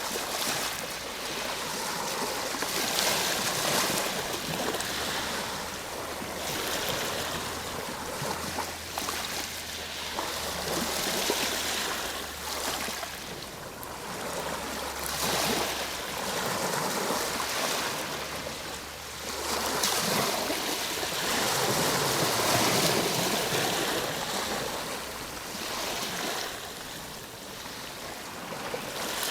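Ocean surf: waves breaking and washing up the shore in a continuous rush that swells and ebbs every few seconds.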